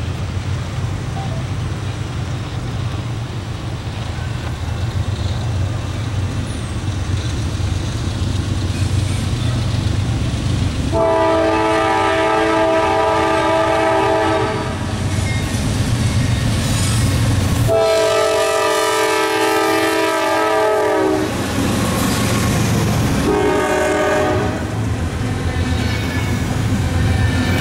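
Norfolk Southern freight train led by a GE Dash 9-40CW diesel locomotive approaching with a steady low rumble, then sounding its multi-note air horn: two long blasts and a short one. Double-stack intermodal cars then roll past with a rumble of wheels on rail.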